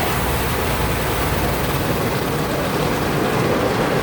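Automatic car wash equipment running, heard from inside the car's cabin: a steady, even rush of noise.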